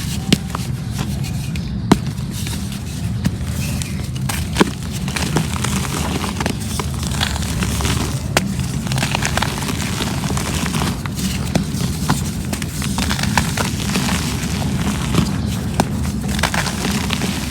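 Reused cement crumbling: a continuous gritty crackle with scattered sharp snaps, over a steady low rumble.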